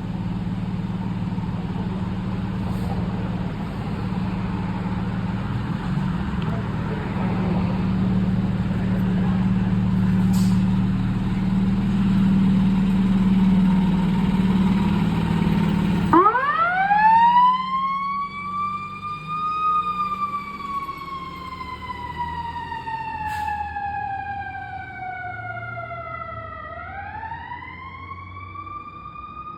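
Fire engine's diesel engine running with a loud low drone. About halfway through, its siren winds up to a high wail, then slowly falls in pitch and winds up again near the end.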